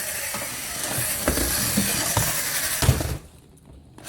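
Toy remote-control monster truck's small electric motor and gears whirring, with a few knocks, cutting out about three seconds in and starting up again at the very end.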